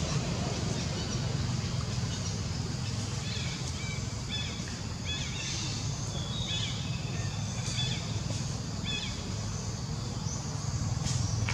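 Outdoor ambience: a steady low rumble with a run of short, high bird chirps repeated through the middle.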